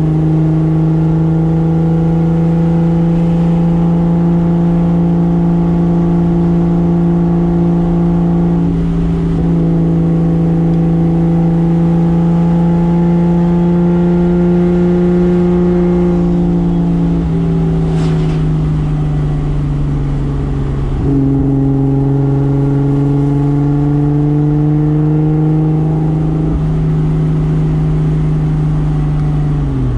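1995 Toyota Soarer's single-turbo 2JZ straight-six running at a nearly steady engine speed, its pitch holding level for long stretches with a few small steps. Right at the end the revs drop sharply and climb straight back up.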